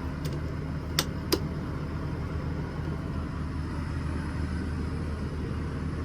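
Three sharp clicks in the first second and a half: light switches being pressed on, over a steady low mechanical hum.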